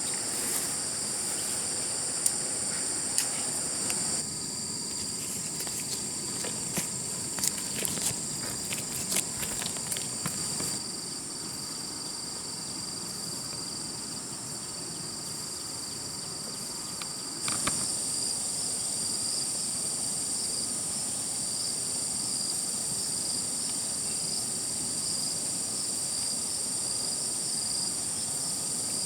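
Steady, high-pitched chorus of insects shrilling without a break. Scattered sharp clicks and knocks come in the first third and once more a little past halfway.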